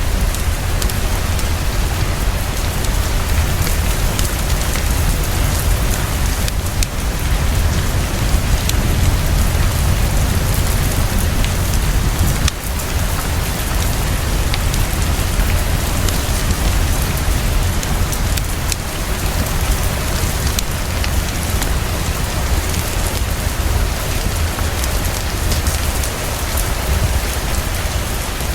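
Heavy, fast, steady rainfall, a dense even hiss with a constant deep low rumble underneath.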